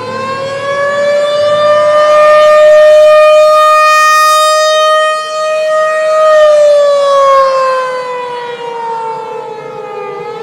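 Civil defense siren sounding a storm warning. It winds up to a steady wail, holds, and about two-thirds of the way through slowly winds down.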